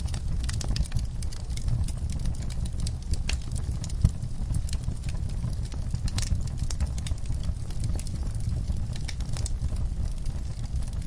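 Wood fire burning in a fireplace: irregular crackles and snaps over a steady low rumble, with one sharper pop about four seconds in.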